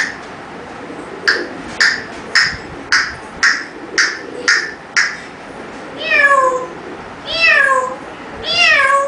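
Seven short, sharp calls about two a second, then three long meows, each falling in pitch. Whether they come from a cat or from a parrot mimicking one is not clear.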